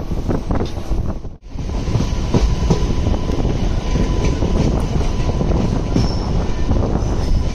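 Express passenger coach running over the rails, heard from the open doorway: a loud steady rumble with frequent clicks from the rail joints. A thin steady squeal from the wheels runs underneath from about two seconds in. The noise cuts out for a moment about a second in.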